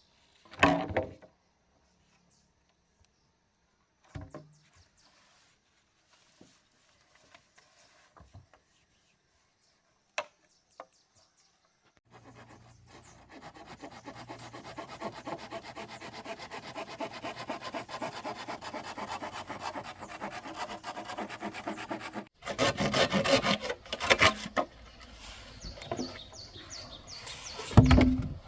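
A few scattered knocks on wood, then a hand saw cutting bamboo in quick back-and-forth strokes, louder near the end.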